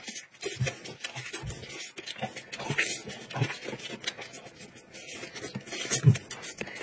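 Close-up eating sounds of a man chewing roast chicken and tearing it by hand: irregular wet clicks, smacks and soft thumps.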